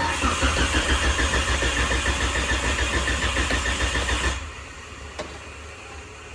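Car engine cranking on its starter motor with a fast, even pulsing for about four seconds, then the cranking cuts off.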